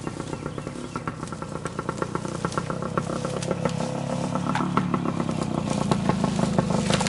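Trials motorcycle engine running at low revs with a rapid, uneven popping, picking up a little near the end.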